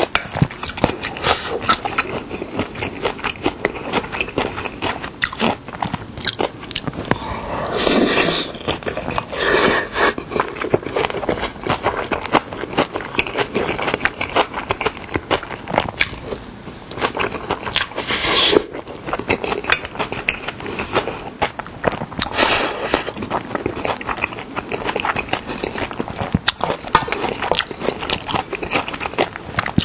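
Close-miked chewing and crunching of a mouthful of young radish kimchi bibimbap, with a spoon scraping and clinking in a stainless steel bowl as the rice is mixed. A few louder bursts stand out now and then.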